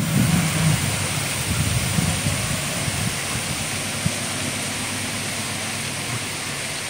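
Passenger train carriages rolling away on the rails: a steady rumble and hiss that slowly fades as the train recedes.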